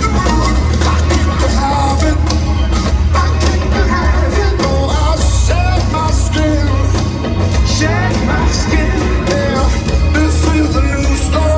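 Live rock band playing with a male lead singer, heavy bass and steady drums, as picked up by an audience member's phone in a concert crowd.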